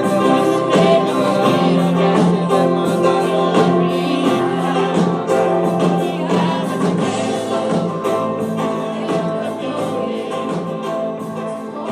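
Christian worship song sung by a group of voices together over instrumental backing. It gradually gets quieter toward the end.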